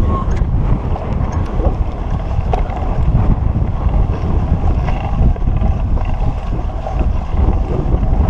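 Wind buffeting a handlebar-mounted GoPro's microphone: a loud, steady low rumble, with a few scattered small clicks.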